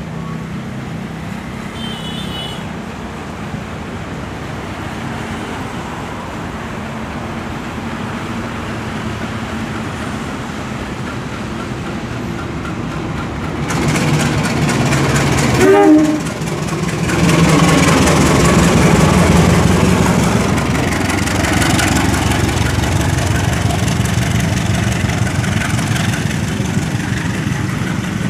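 Diesel-electric locomotive hauling a passenger train, its engine running and growing louder as it approaches. A short rising tone sounds about halfway through as the locomotive reaches the platform. The coaches then roll past close by with a loud, steady rumble.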